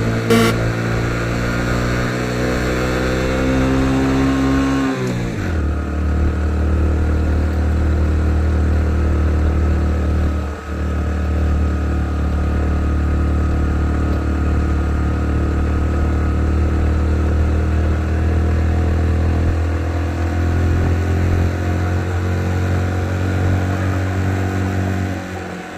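Motorcycle engine under way: its pitch climbs for about four seconds, drops sharply about five seconds in, then settles into a steady low drone.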